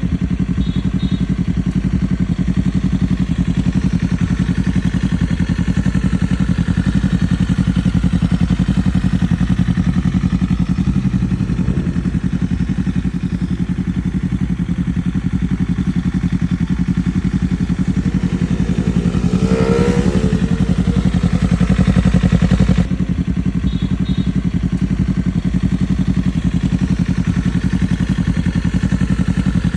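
Engine idling steadily through a newly installed aftermarket exhaust. About two-thirds of the way through, it revs up once, holds for a few seconds, then drops sharply back to idle.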